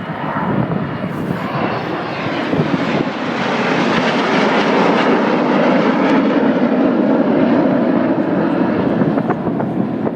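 Red Arrows BAE Hawk jet aircraft passing overhead: a jet engine roar that swells about three seconds in, stays loud through the middle and eases off near the end.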